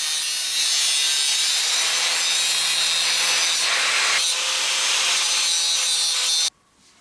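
Angle grinder cutting or grinding steel tube: a loud, steady, hissing grind that cuts off abruptly near the end.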